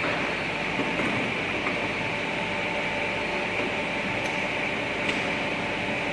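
SNE 38 CNC pipe bending machine running: a steady machine hum and hiss with a few faint clicks.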